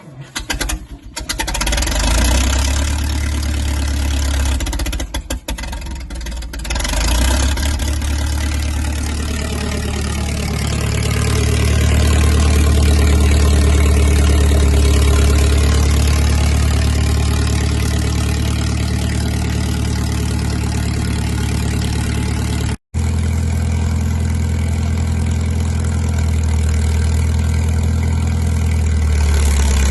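Cold start of a 1950s crawler dozer's engine on choke in deep cold. It cranks and catches about a second in, runs unevenly for several seconds, then settles into a steady low run. There is a momentary break about three-quarters of the way through.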